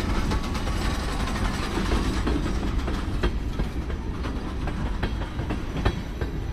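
Freight train tank cars rolling past: steel wheels clicking over rail joints above a steady low rumble, with the last car going by near the end.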